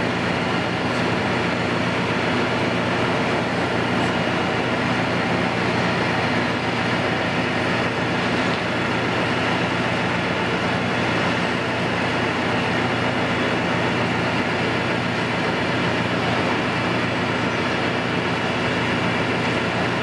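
Steady, unchanging drone of heavy machinery: a low engine hum over a dense mechanical rumble that stays at the same level throughout.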